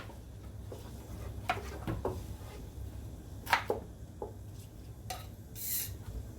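A knife cutting food on a chopping board: a handful of irregular knocks and clicks, with a brief hiss near the end.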